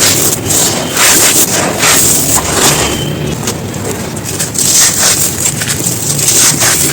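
Brittle dried chunks being crumbled and crushed, a dense run of crunches and crackles that keeps on with no pause.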